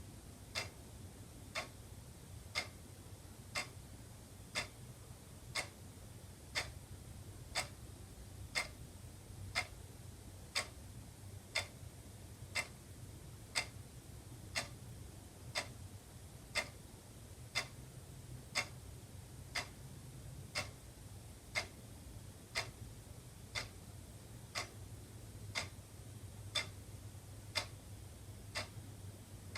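Wall clock ticking steadily, one sharp tick each second, over a faint low hum.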